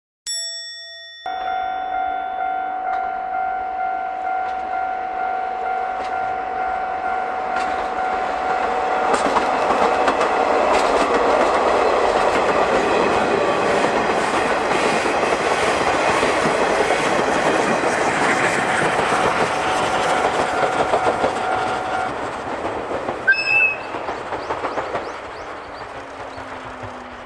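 A C12 steam locomotive-hauled train passing a level crossing. The crossing's warning bell rings steadily while the train's rumble and wheel clatter swell and run loud for several seconds. The bell stops as the train clears, and a short whistle blast sounds about a second later before the train fades away.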